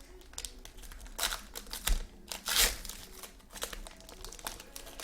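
Trading card pack wrappers being torn open and crinkled by hand, in irregular rips and crackles, the loudest about two and a half seconds in.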